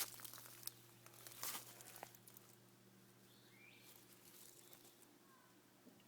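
Near silence: a few faint rustling, scuffing sounds in the first two seconds, then only a quiet background with a few faint high chirps.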